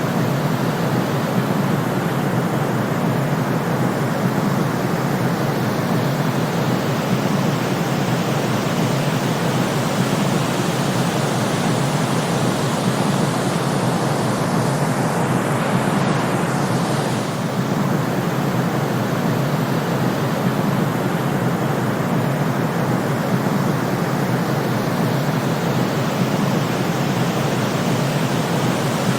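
Steady white noise used as a sleep sound, an even hiss weighted toward the low end with no rhythm or breaks.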